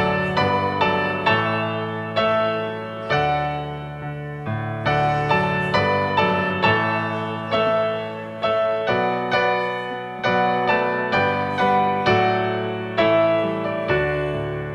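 Solo piano playing slow music: chords and melody notes struck one after another, each ringing and fading before the next.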